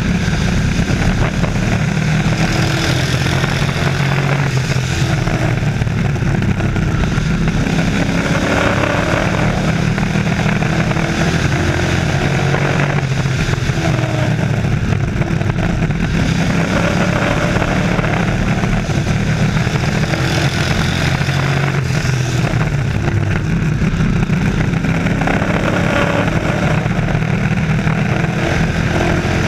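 A field of race trucks running at speed around a short oval track: a continuous, loud engine din, with engine pitch rising and falling again and again as the trucks accelerate and pass.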